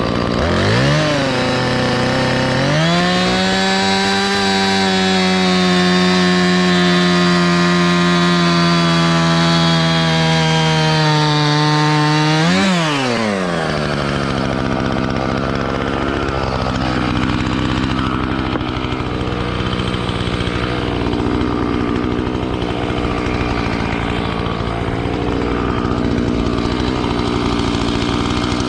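Two-stroke chainsaw cutting into a wooden log. It revs briefly about a second in, then is held at high revs for about ten seconds with the pitch sagging slowly under load. After a quick blip it drops back to a steady idle.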